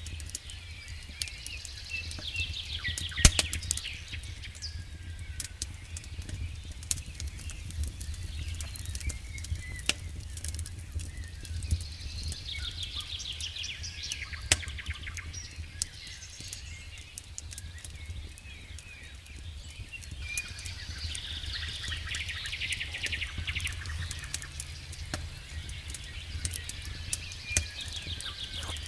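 Campfire crackling with scattered sharp pops, one loud pop about three seconds in, while birds sing rapid trilled phrases that recur every several seconds, over a steady low rumble.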